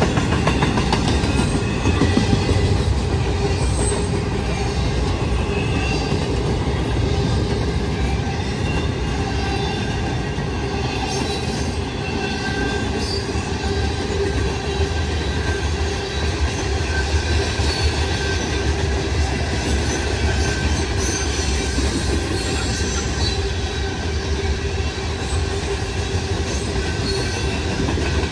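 Freight cars of a southbound intermodal and mixed freight train rolling past, a steady rumble of steel wheels on rail with a faint, steady wheel squeal throughout.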